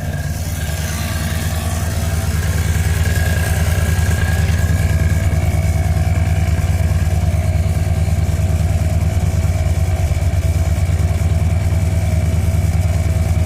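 1976 Chevy Bonanza truck's engine running steadily, getting a little louder over the first couple of seconds and then holding an even level.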